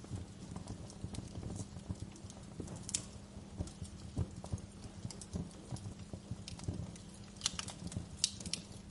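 Wood fire crackling over a low steady rumble, with irregular small pops throughout and a few sharper snaps just before the end.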